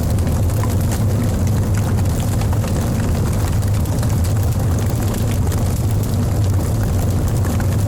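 Wood logs burning in a fireplace: a steady low rumble of the fire with frequent small crackles and pops throughout.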